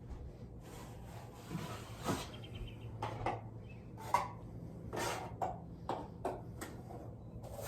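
A 12-inch drywall knife scraping joint compound over a drywall joint in a run of short strokes, a little over one a second, while the final coat goes on.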